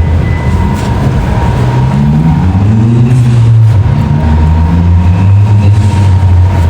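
A heavy vehicle pulling away close by over a low, steady hum, its motor note rising in pitch twice.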